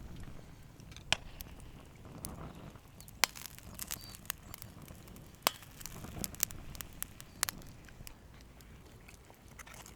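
Campfire crackling, with irregular sharp pops over a low steady rustle.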